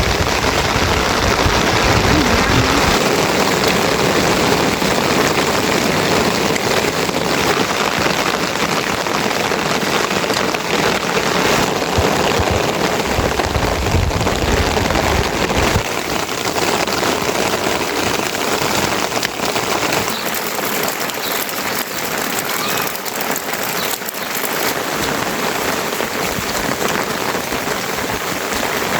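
Steady rain falling, an even hiss that continues throughout.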